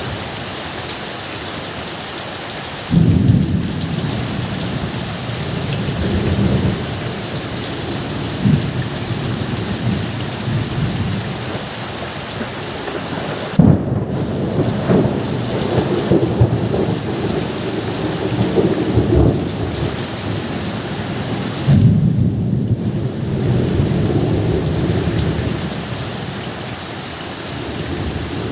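Steady rain hissing, with thunder rumbling three times: a sudden low rumble about three seconds in, another about halfway, and a third near the end.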